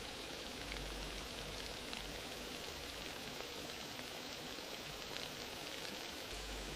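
Wood fire burning in a fireplace: a steady hiss of flames with scattered small crackles and pops.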